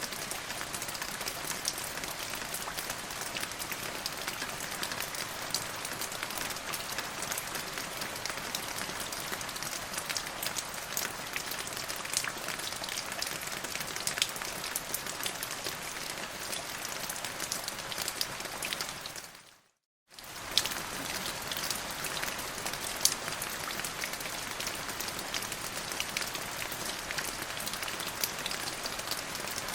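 Steady rain falling, an even hiss with many individual drops ticking through it. About two-thirds of the way in it fades to silence for half a second, then comes straight back.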